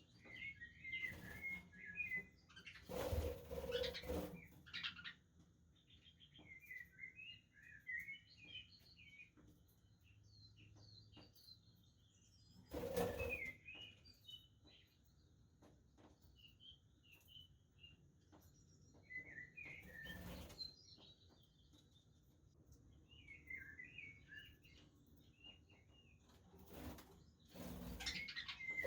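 Budgerigars chattering in short, scattered warbling chirps, with a few brief louder rustling bursts of wing flapping.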